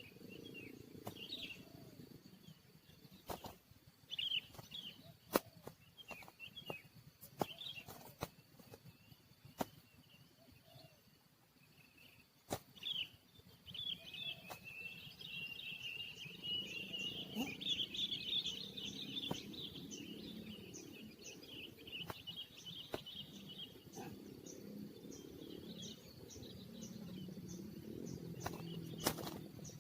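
Birds chirping and calling, with a long, rapid twittering run in the middle and sharp clicks scattered throughout. A faint, regular high ticking runs through the second half.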